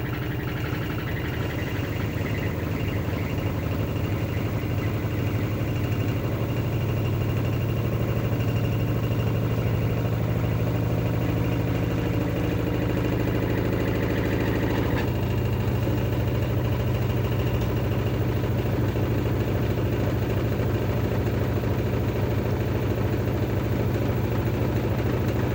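LG F12A8ND front-loading washing machine spinning its drum at speed, a loud, steady motor hum with a whine over it. About fifteen seconds in, some of the higher tones drop away while the hum carries on.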